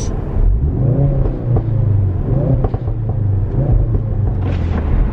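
Ford Focus RS engine and exhaust revved in short blips about once a second, dropping back to idle between them.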